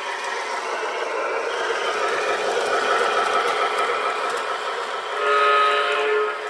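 Model Soo Line F7 diesel locomotive running along its track with a steady rumble. Near the end its onboard sound system gives one diesel horn blast lasting about a second.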